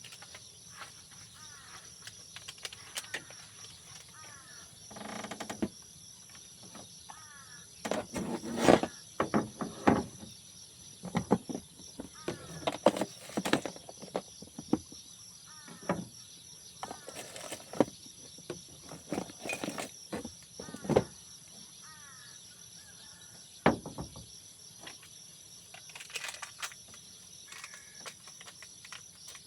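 A steady, high-pitched drone of insects, with irregular knocks and clatter over it. The loudest knocks come about a third of the way in.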